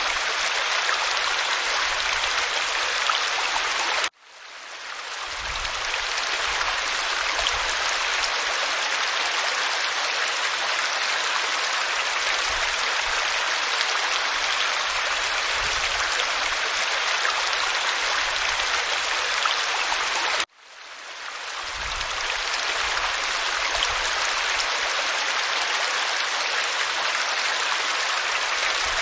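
Waterfall pouring over rock: a dense, steady rush of water. The sound cuts out suddenly twice, about four seconds in and again about twenty seconds in, and fades back up over a second or so each time.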